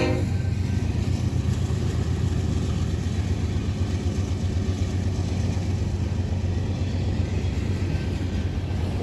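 Freight train rolling past with a steady low rumble; the locomotive horn cuts off just as it begins.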